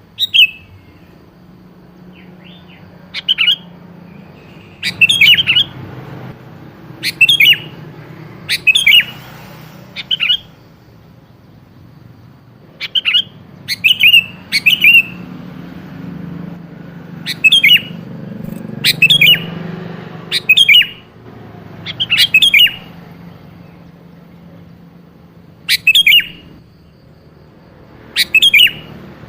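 Sooty-headed bulbul (kutilang) giving short, loud chirping calls, one at a time or in quick pairs, every one to three seconds. It is a lure call, meant to make other kutilang answer.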